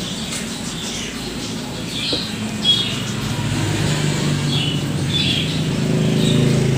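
Small birds chirping again and again in the background, with a low motor hum that grows louder from about three seconds in. A single sharp click about halfway through.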